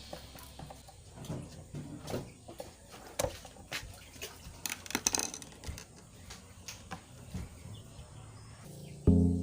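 Light, irregular clicks and knocks of hands-on handling, at a low level. Loud music starts again near the end.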